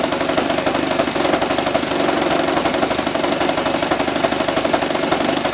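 Saito 80 single-cylinder four-stroke model aircraft glow engine running steadily, its firing pulses rapid and even. With its valve clearance freshly set, it runs without the cracking and backfiring it had before.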